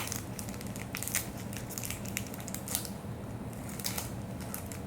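Pokémon trading cards and their foil pack wrapper being handled: irregular short crinkles and card flicks.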